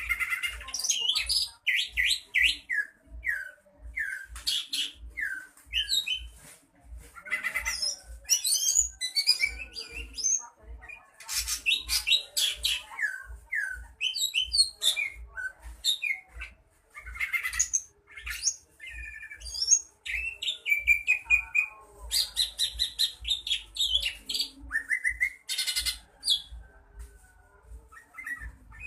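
Cucak ijo (green leafbird) singing a long, varied song of whistled slurs, chirps and chattering phrases with short pauses between them. A soft low pulse repeats about every half second underneath.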